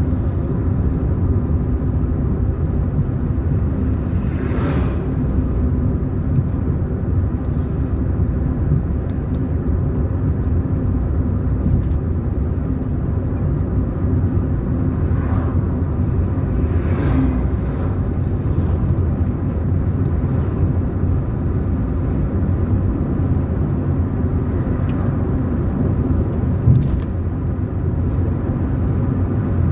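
A car driving on the road: steady engine and tyre rumble. A few brief, sharper sounds rise above it, about five seconds in and again about seventeen seconds in.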